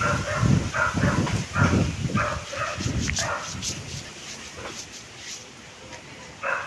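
A dog barking, a quick run of barks over the first few seconds, then a pause and a couple more barks near the end.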